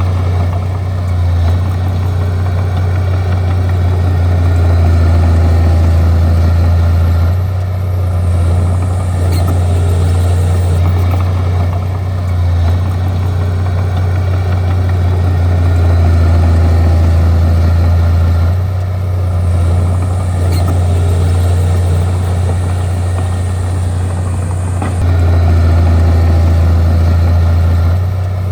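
Bulldozer's diesel engine running steadily with a deep drone, its loudness swelling and easing every few seconds as the machine works.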